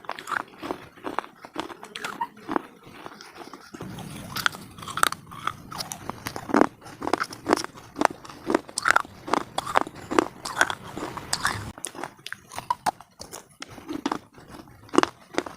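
Close-miked biting and chewing of brittle slate pieces (slate pencil cubes and bars): sharp, irregular crunches, several a second, with grinding chews between them.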